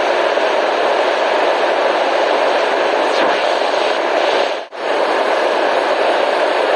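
Steady white noise, a constant hiss that is fuller in the middle range than in the highs. It dips sharply for a split second about two-thirds of the way through, almost cutting out, then carries on unchanged.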